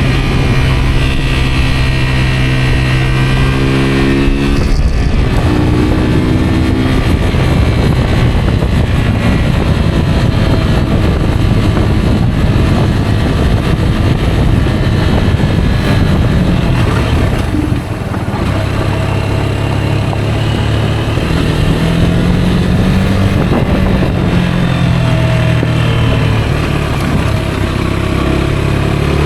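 Rieju Aventura 125 motorcycle engine running under way, its note shifting up and down with the throttle and gears, with a brief drop in level about eighteen seconds in.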